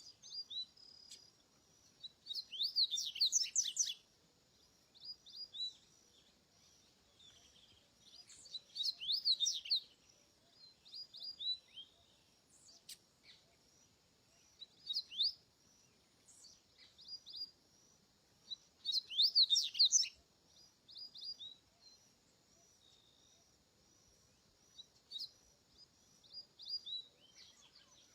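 Double-collared seedeater (coleiro) singing: bursts of fast, high sliding notes every several seconds, with short single notes between them. A faint, steady, high pulsing continues in the background.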